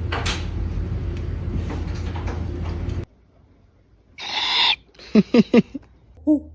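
A steady rushing noise that cuts off about three seconds in, then an owl gives a short hiss and four quick, sharp pitched calls.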